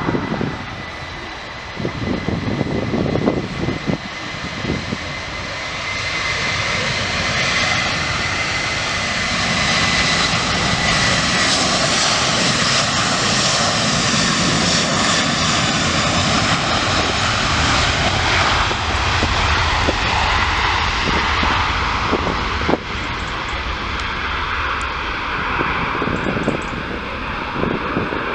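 A jet airliner's engines passing: a steady high whine at first, the engine noise building to its loudest midway and easing off toward the end.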